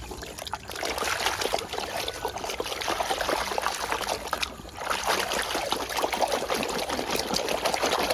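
Water trickling and splashing as a muddy toy is washed, with a short lull about four and a half seconds in.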